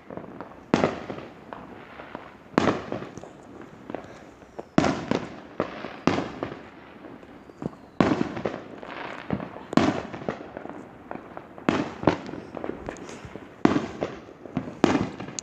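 Consumer fireworks going off: about a dozen sharp bangs at irregular spacing, roughly one every second or two, each with a short echoing tail.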